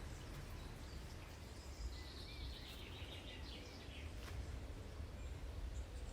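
Faint wild bird song: a quick series of high notes stepping down in pitch, about two seconds in, over a steady low rumble.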